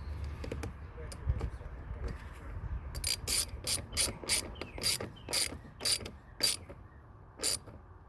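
Ratchet wrench clicking in short strokes, about three sharp clicks a second, as the clamp nut on the positive battery terminal is tightened.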